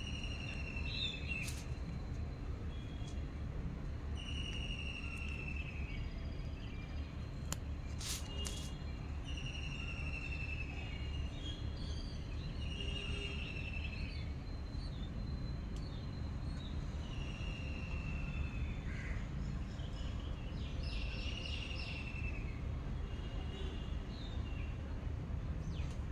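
Outdoor background: a steady low rumble, over which a bird repeats a short falling whistled call every three to four seconds. A few sharp clicks come in the first several seconds.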